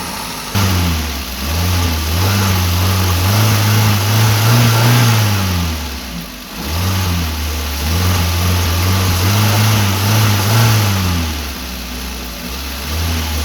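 2009 Maruti Suzuki WagonR engine revved up and down twice from idle, its pitch rising and falling, with a smaller rise near the end. There is no air-sucking noise from the intake now that the air filter case with the broken cap lock has been replaced.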